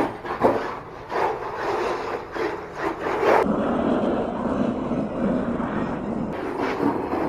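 1/10-scale HSP Brontosaurus RC monster truck with a brushless motor, driven in a string of short throttle bursts with scraping, scrabbling noise, then a steadier run from about three and a half to six seconds in, then more bursts.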